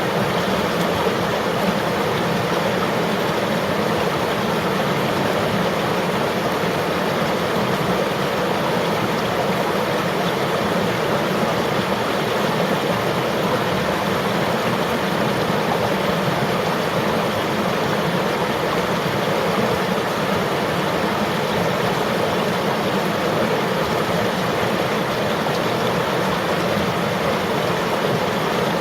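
River water flowing, a steady, even wash of noise that does not change.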